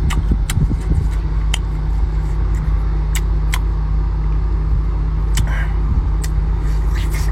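Eating sounds: scattered sharp clicks and smacks from chewing and pulling apart crab and other shellfish, over a loud, steady low rumble.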